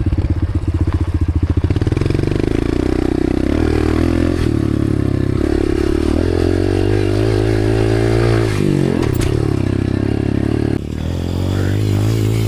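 Dirt bike engine running under throttle, the revs rising and falling as it is ridden at a jump. It drops sharply and picks back up about nine seconds in.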